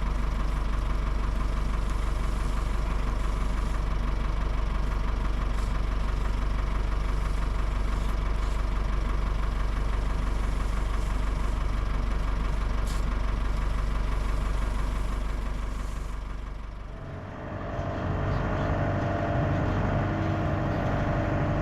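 A vehicle engine running steadily with a strong low rumble. About 17 seconds in, the sound dips briefly and changes to a steadier engine hum with a clearer pitch.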